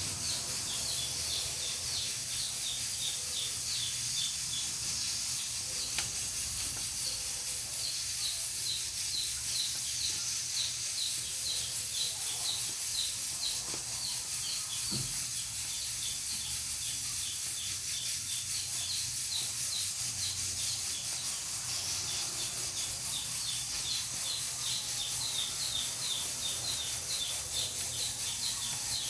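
Pressure cooker on a wood-burning stove hissing steadily as steam escapes. A short high chirp repeats a couple of times a second throughout.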